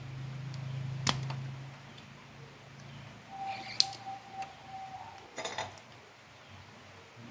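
Handling noises: a few sharp clicks and a short clatter of small hard parts. A low hum fades out in the first two seconds, and a steady mid-pitched tone sounds for about two seconds in the middle.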